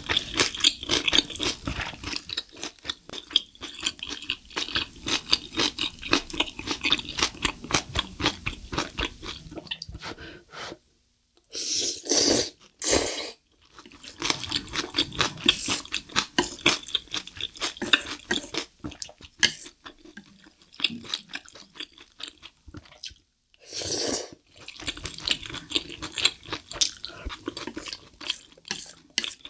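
Close-miked chewing of spicy black bean instant noodles: dense wet mouth sounds, with a few brief pauses and a few louder bursts in between.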